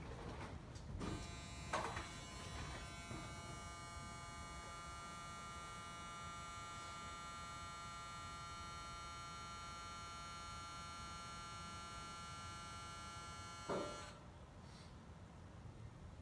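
Steady electric motor whine that starts with a click and stops with another about twelve seconds later.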